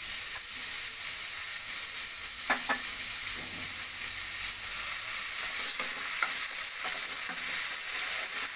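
Prawns sizzling in hot mustard oil in a non-stick wok: a steady frying hiss, with a few short knocks and scrapes of a wooden spatula about two and a half seconds in and again around six seconds.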